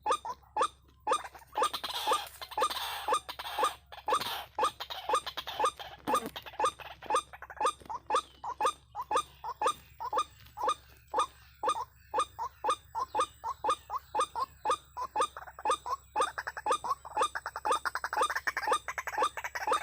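White-breasted waterhen calling: short rising notes repeated steadily, about two or three a second. A patch of noise is heard under the calls a couple of seconds in and again near the end.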